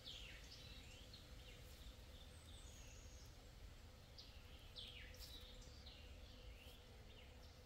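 Faint bird calls: a series of short chirps that slide down in pitch, over low background noise.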